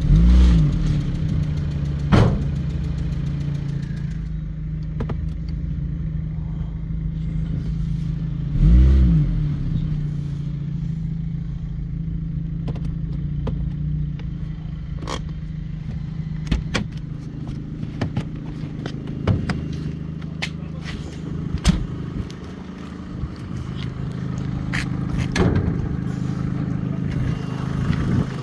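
Opel Z18XE 1.8-litre four-cylinder petrol engine idling steadily, revved briefly twice, near the start and about nine seconds in, each time rising and falling back to idle. Scattered sharp clicks sound over the idle later on.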